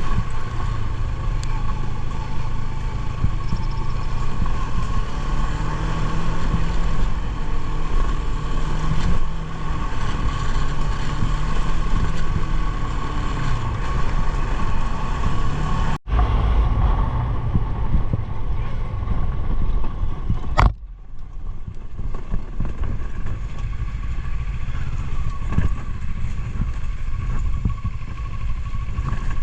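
Motorcycle engine running with wind noise on the microphone while riding. The sound drops out abruptly twice, about halfway through and again a few seconds later, and is a little thinner after the second break.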